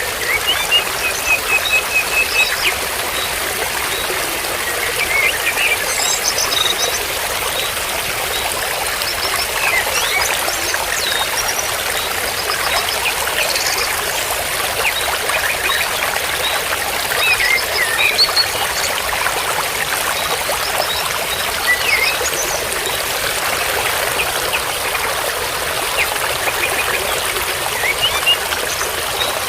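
Water trickling and flowing steadily, with small birds giving short chirps and twitters over it every few seconds.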